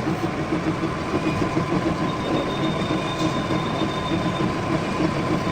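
Metal lathe running, a steady, loud mechanical noise with a faint high whine; a second, higher whine joins about two seconds in.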